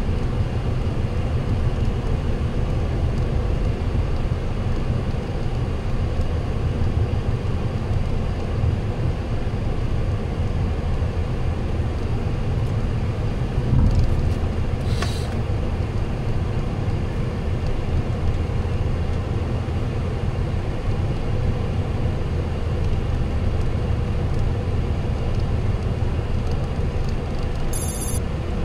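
Steady engine and airflow noise inside a Boeing 737-800 cockpit, heavy in the low end, with a single thump about 14 seconds in and a brief high beep near the end.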